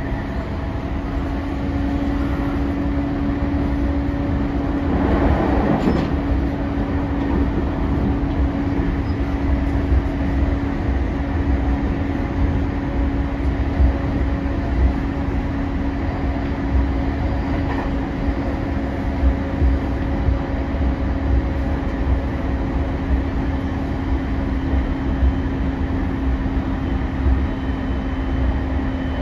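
JR E231 series electric commuter train heard from inside the carriage while running at steady speed: a low rumble with a constant hum. There is a brief swell of noise about five seconds in, then recurring clacks of the wheels over rail joints.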